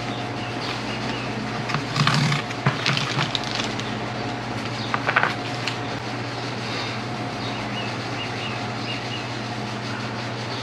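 A few light handling sounds, short clicks and rustles of small parts being picked up and set down, over a steady low hum.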